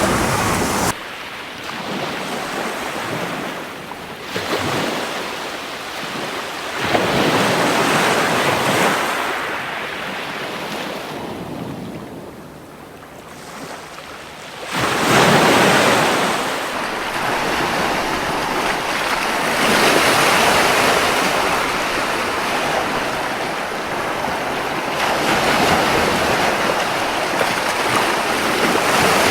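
Ocean surf breaking and washing up the beach in surges every few seconds, the loudest about halfway through, between softer lulls.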